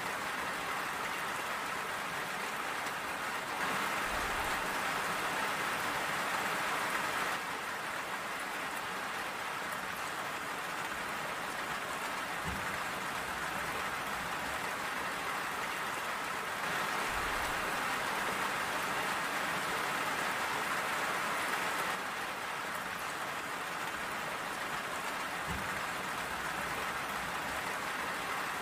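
Steady rain falling and pattering on surfaces, a little heavier for a few seconds twice, with a few soft low thuds.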